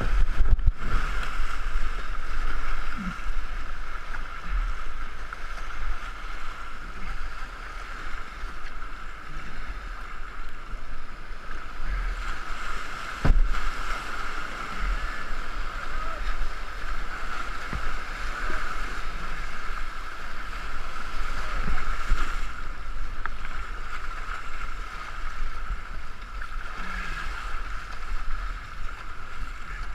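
Steady rush of river water and wind on the microphone from a racing canoe under way, with one sharp knock about 13 seconds in.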